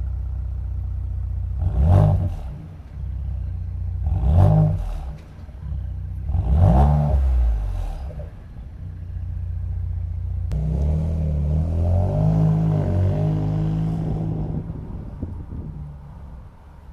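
Ford Edge ST's 2.7-litre twin-turbo V6 exhaust, its factory muffler and resonator replaced by a single Flowmonster muffler, idling and blipped three times, each rev rising and falling quickly. Then a longer spell at higher revs follows, dying away near the end.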